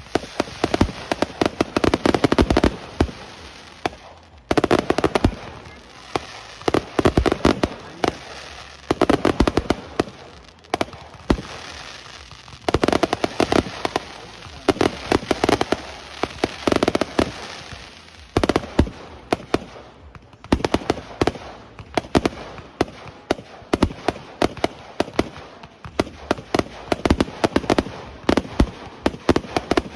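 Aerial fireworks bursting in rapid volleys: many sharp bangs and cracks, bunched into dense loud clusters every few seconds with scattered pops between them.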